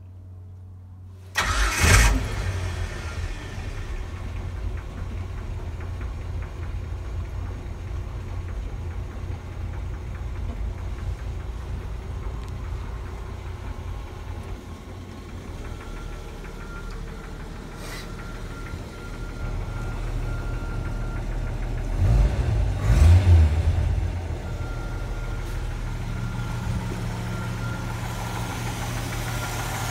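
A 1989 Jeep Wrangler YJ's 4.2-litre inline-six engine starts suddenly about a second and a half in and settles into a steady idle. About 22 seconds in it is revved briefly, twice, then returns to idle.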